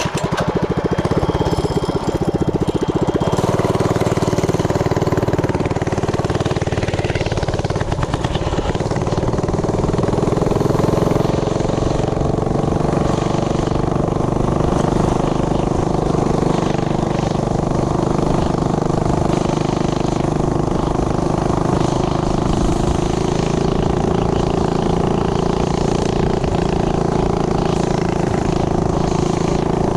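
Tillotson 212 single-cylinder four-stroke engine on a Coleman CT100U mini bike, running steadily and loudly during carburettor tuning, its pitch shifting slightly about eight seconds in.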